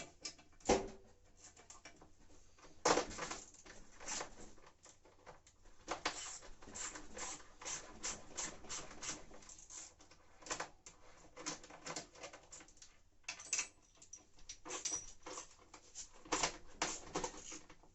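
Ratchet wrench with a 13 mm socket clicking in quick runs while undoing the bolts of a washing machine's concrete counterweight, with a few louder knocks of tool against metal about a second and three seconds in.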